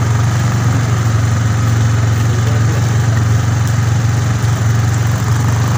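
A vehicle engine running steadily, a loud low hum that does not change in pitch.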